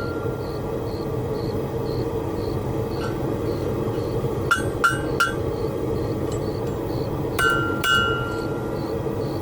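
A blacksmith's hammer striking the anvil, each blow leaving a short metallic ring: a faint blow early, three quick blows about halfway through, and two more near the end, over a steady low rushing noise.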